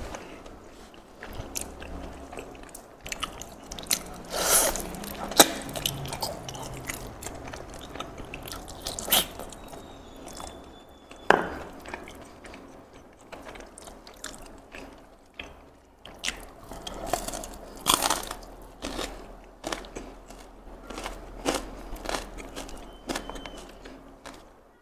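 Close-miked eating sounds: a man chewing and biting with wet mouth clicks, smacks and crunches as he eats fried chicken, crispy anchovy sambal and gristly beef from the sop gearbox.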